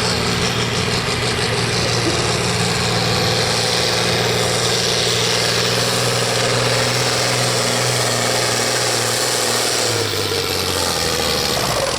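Hot stock pulling tractor's turbocharged diesel engine running hard at steady high revs, with a strong hiss over it; about ten seconds in the engine note drops in pitch and level as it eases off.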